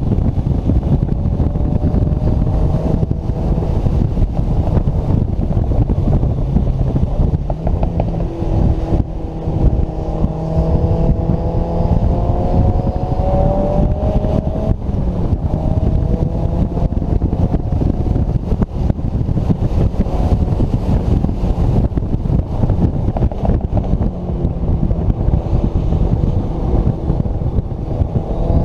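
Turbocharged Mazda Miata NC engine pulling hard on a rain-soaked track, over a heavy, constant low rumble of wind and road noise. The engine pitch climbs slowly through a long pull in the middle, drops suddenly, and starts climbing again near the end.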